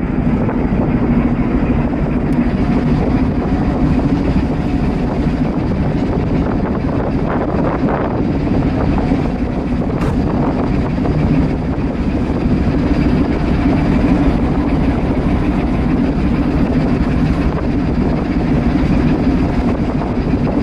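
Cargo ship's main diesel engine running steadily under way: a loud, constant low hum with no change in speed.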